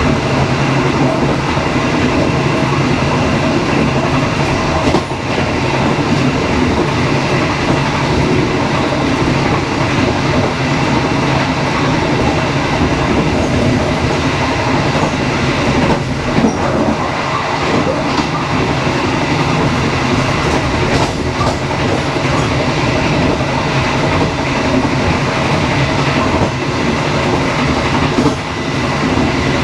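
Dharmawangsa passenger train running steadily along the track: a continuous rumble with a constant hum and a few scattered clicks from the wheels over the rails.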